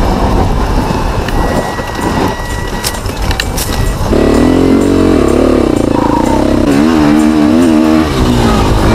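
Husaberg TE 300's two-stroke single-cylinder engine running under load on the bike. About four seconds in it comes up to a stronger, higher note, with the revs rising and falling as the throttle is worked.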